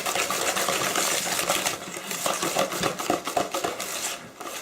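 Hand whisk beating sponge batter in a mixing bowl, its wires ticking rapidly against the bowl; the whisking eases off near the end.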